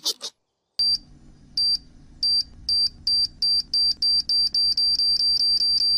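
Electronic countdown beeping: one high tone repeated, starting slowly about a second in and speeding up to about five beeps a second.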